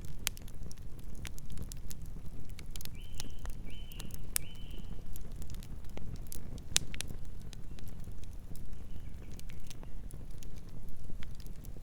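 Wood campfire burning, with irregular sharp crackles and pops over a steady low rumble of the flames. A short high-pitched call sounds three times in quick succession about three seconds in, and faintly again later.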